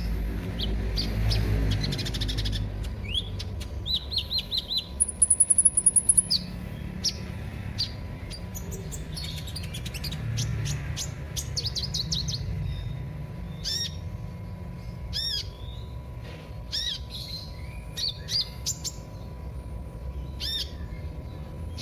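Sunbird (the bird Indonesian bird-keepers call 'kolibri') chirping and twittering: quick high notes and short trills, loudest as a rapid high trill about five seconds in, then spaced arched chirps through the second half.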